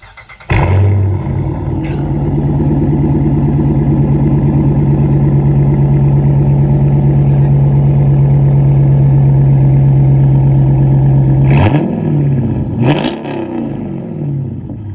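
Dodge Challenger's Hemi V8 with an aftermarket exhaust starting up about half a second in and settling into a loud, steady fast idle typical of a cold start. Near the end it is revved in a couple of quick blips.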